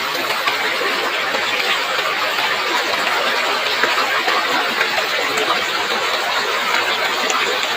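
Steady rushing of river water flowing over stones, an even hiss without rhythm or pitch.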